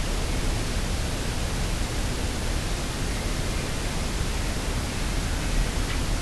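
Steady rushing wind noise with a low rumble.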